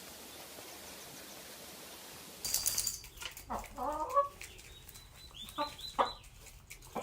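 A steady faint hiss, then from about two and a half seconds in a chicken calling several times in short, broken calls.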